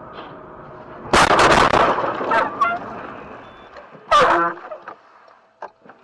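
Steady road noise, then about a second in a sudden loud crash of a vehicle collision that dies away within a second, followed by short car horn honks, the loudest about four seconds in.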